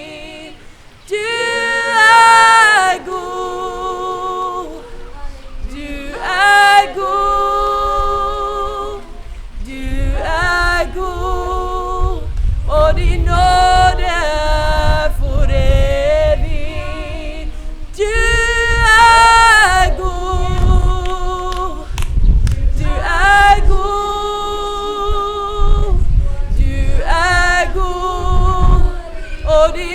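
Voices singing a worship song unaccompanied, in long held notes with vibrato. A low rumble joins in from about ten seconds in.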